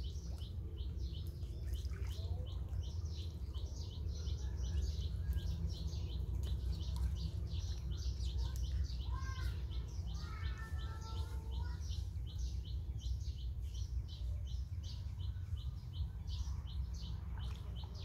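A bird chirping rapidly and evenly, about four short high chirps a second, over a steady low rumble of background noise.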